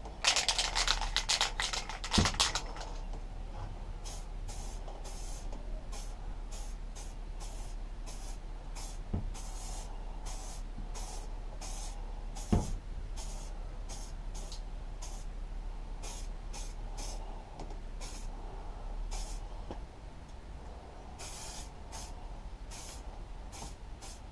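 Aerosol primer spray can spraying in many short hissing bursts, with a few longer bursts near the end. It opens with about two seconds of dense rattling, and there are three single knocks.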